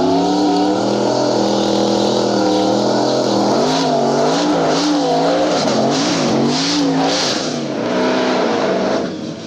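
Drag race car engines revving, their pitch swinging quickly up and down, before the sound drops away near the end.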